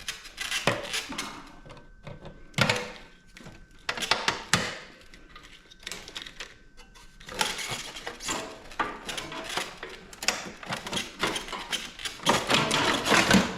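Sheet-metal parts and hand tools knocking, clicking and rattling as a PTAC air-conditioner unit is taken apart for scrap, with fast clattering in the second half.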